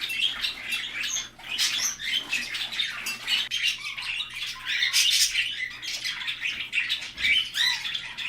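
Budgerigars chattering: a steady run of quick chirps and warbling notes.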